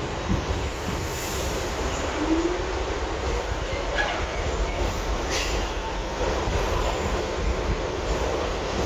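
R62 subway car running along the track, heard from inside: a steady rumble of wheels and car, with a brief faint squeal about four seconds in.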